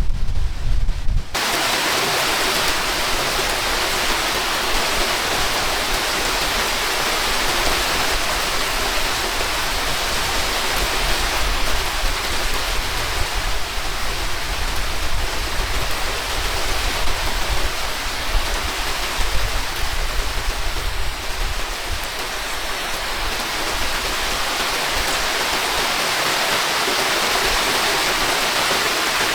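Heavy rain falling steadily, a dense even hiss. A low wind rumble on the microphone cuts off suddenly about a second in.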